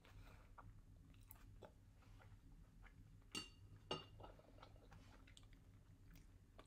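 Faint, close chewing of a mouthful of triangle kimbap (rice with tuna mayo wrapped in seaweed): soft wet mouth sounds with scattered small clicks, and two sharper clicks half a second apart midway through.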